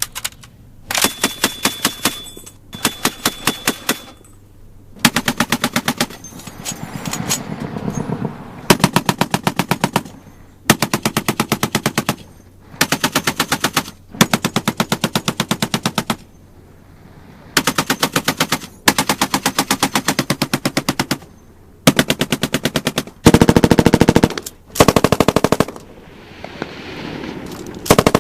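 Automatic weapon fire: about a dozen bursts of rapid machine-gun fire, each one to two seconds long, with short pauses between them.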